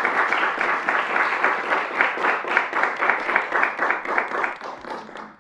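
Audience applauding: many hands clapping in a dense, steady patter that fades away near the end.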